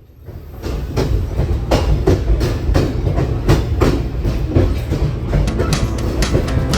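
Train running along the track: a steady low rumble with wheel clicks over the rail joints, fading in over the first second.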